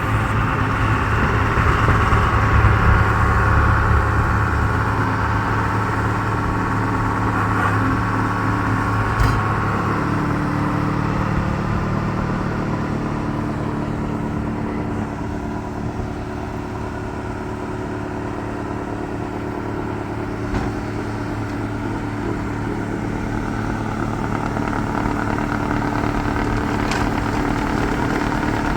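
Snowblower engine running steadily, its note shifting about ten seconds in.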